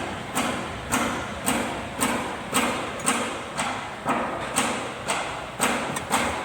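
Repeated hammer blows in a steady rhythm, about two a second, each with a short ringing tail.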